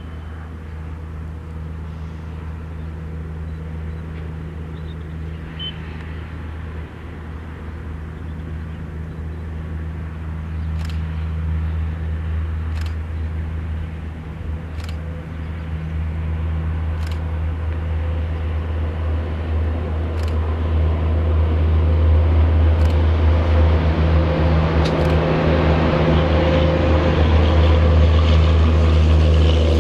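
WAP-7 electric locomotive running with a steady low hum that grows steadily louder as it draws near, with sharp clicks roughly every two seconds in the second half.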